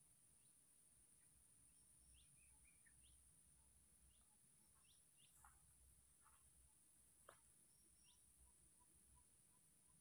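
Near silence, with faint scattered bird chirps over a steady, faint, high-pitched hiss. A soft, quick run of peeps comes in near the end.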